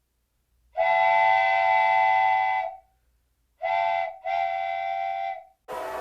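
Locomotive air horn sounding a chord in three blasts: a long one, a short one, then another long one. Near the end a steady outdoor rumble starts abruptly.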